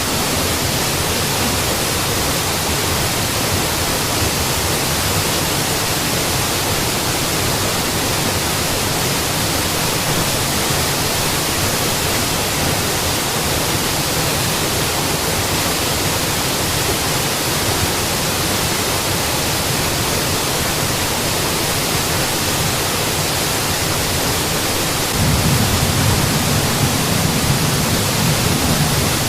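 Mountain waterfall: a steady, even rush of falling water. About 25 s in, a deeper rumble swells up underneath it and holds for the last few seconds.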